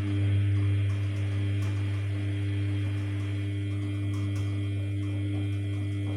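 Samsung P1271 washing machine giving a steady low electric hum.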